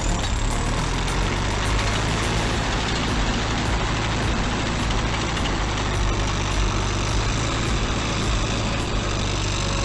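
Diesel engine of a T-130 swamp crawler dozer running steadily.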